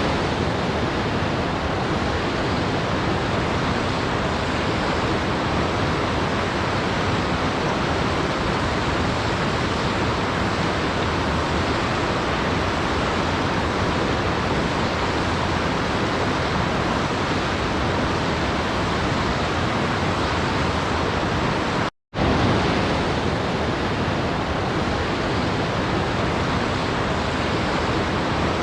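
Steady rushing of a waterfall, an even, unchanging wash of water noise. It cuts out for a split second about two-thirds of the way through, then resumes.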